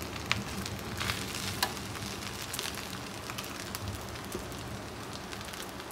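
Fried rice sizzling in a wok as a spatula stirs and scrapes through it, with a few sharp clicks of the spatula against the pan in the first two seconds.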